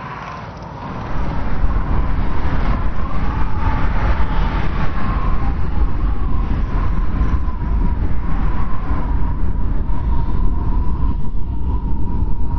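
Strong wind blowing in a steady deep rumble, with a thin whistle that wavers around one pitch above it. It starts softer and builds up over the first second.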